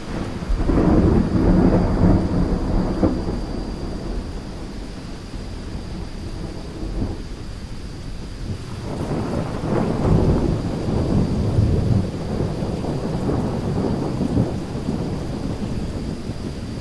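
Thunder rumbling in two long rolls over a steady rain hiss. The first roll swells about half a second in and fades over a few seconds; the second builds about nine seconds in and rolls on for several seconds.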